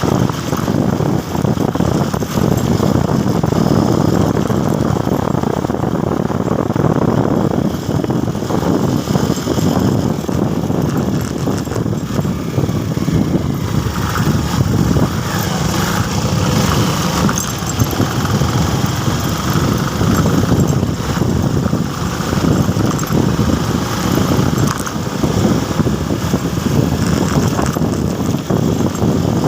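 Motorcycle on the move: engine and road noise as a loud, steady rush with no letup.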